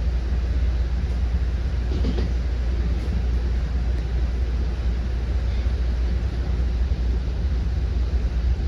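Commuter train running between stations, heard from inside the passenger coach: a steady low rumble of wheels on the rails with running noise, and a brief faint clack about two seconds in.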